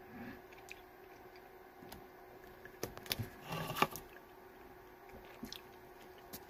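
A person chewing hard, frozen chewy candies with wet mouth clicks and smacks, louder in a short cluster about three to four seconds in.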